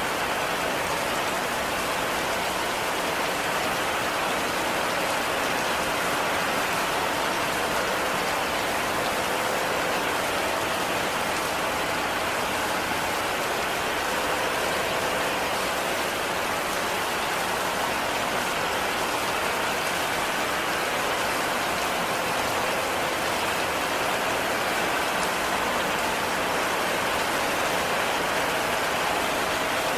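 Heavy rain falling steadily, a dense, even hiss of drops with no breaks or single hits standing out.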